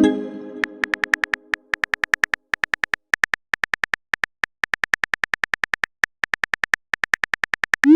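Rapid, irregular phone-keyboard typing clicks of a simulated text chat. A message chime at the start rings out over about a second, and a short rising bloop comes right at the end.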